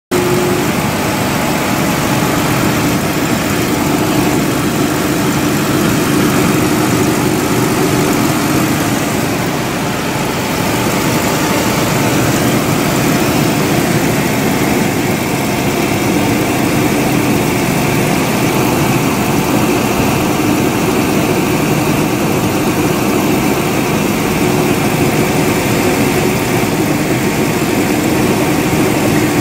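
Nissan Patrol GQ's RB30 straight-six running steadily on LPG, with a faint humming-growling noise that comes and goes. The owner traces the hum to vibration in the gas pipe between the LPG lock-off valve and the converter.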